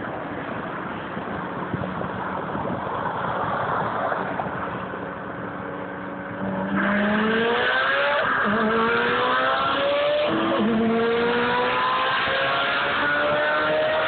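Car engines cruising with a steady drone and road noise, then about seven seconds in they go to full throttle from a 40 mph roll. The engine pitch climbs, drops back twice at upshifts, and climbs again.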